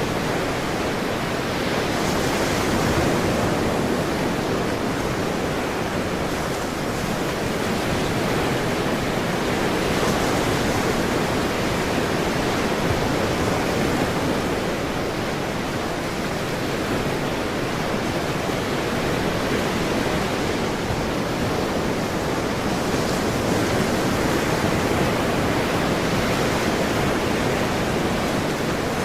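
Ocean surf: a steady wash of waves that swells gently and eases again every several seconds.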